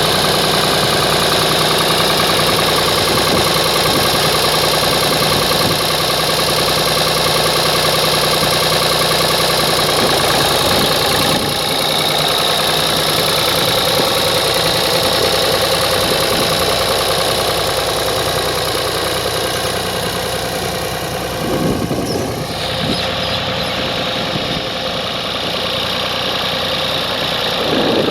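Ford 4000 diesel tractor engine running steadily; its pitch drops about two-thirds of the way through.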